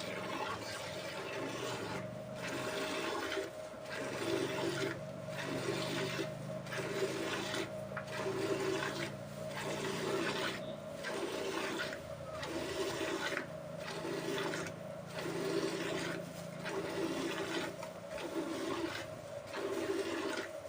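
A cow being milked: jets of milk hiss into the vessel in a steady rhythm, a bit more than one pulse a second.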